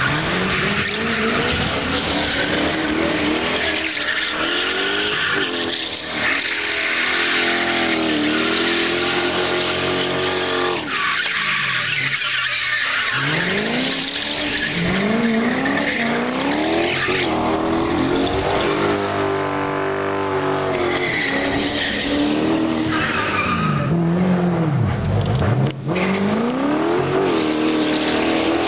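BMW 4.4-litre V8 being revved hard up and down while drifting, its pitch rising and falling again and again, over continuous tyre squeal. The engine drops to a low pitch and climbs again about 25 seconds in.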